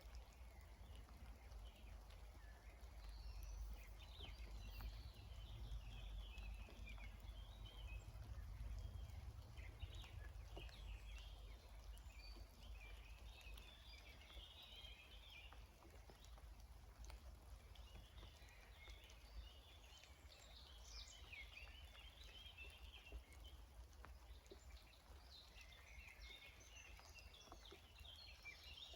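Songbirds chirping and singing faintly in scattered bursts, over a low steady rumble.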